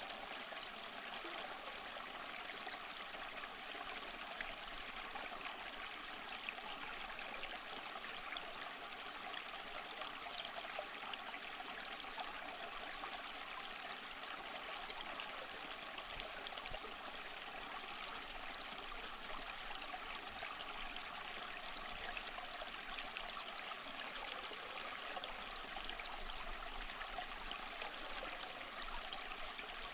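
Waterfall: water rushing and splashing in a steady, unbroken hiss, with little deep rumble.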